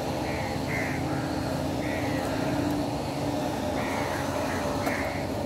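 A bird calling in short, repeated notes, about seven of them, over a steady low hum.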